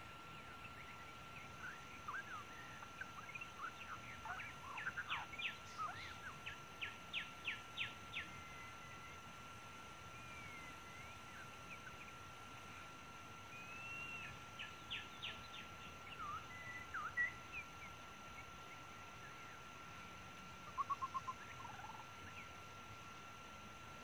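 Faint bird calls: quick series of sharp chirps and short whistled slurs in a few bursts, ending in a brief rapid trill. A steady high tone runs underneath.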